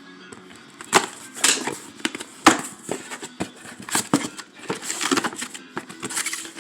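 Parts and packaging of a motorized-bicycle engine kit being handled while it is unboxed: a few sharp knocks and clunks with rustling of wrapping in between.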